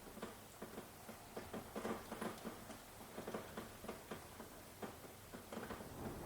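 Rain falling, with many individual drops pattering and tapping irregularly.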